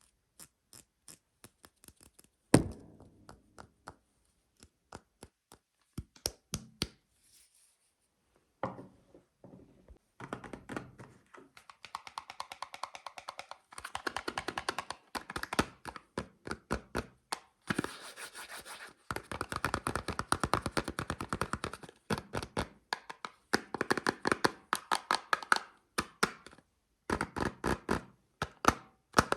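Fingernails tapping and knocking on soap bars and their packaging: scattered single taps, one loud thunk about two and a half seconds in, then from about ten seconds on rapid, dense tapping in quick runs.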